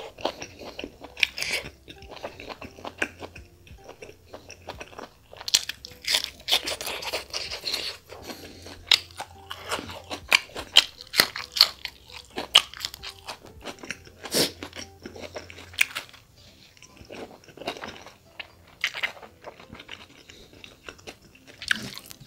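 Close-miked chewing and biting of chicken gizzard and liver with rice: many irregular crunches and mouth clicks.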